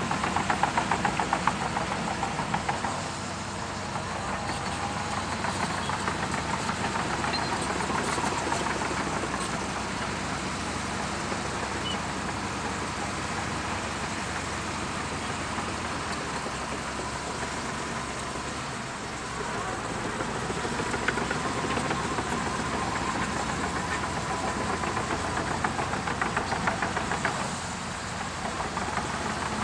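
Diesel engine of a Shantui DH17C2 bulldozer running steadily at work, with a rapid knocking beat and a faint steady whine. It is louder for a few seconds at the start and again for a spell near the end.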